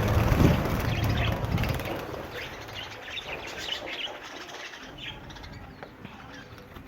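Budgerigars chirping, with many short, high chirps through the middle. A loud low rush of noise fills the first two seconds.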